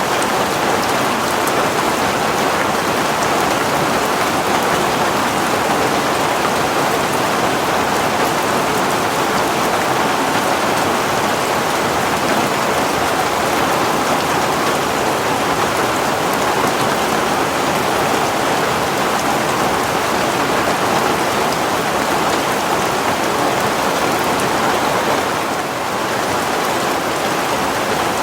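Heavy rain falling steadily in an even, dense hiss, with a slight brief dip in level near the end.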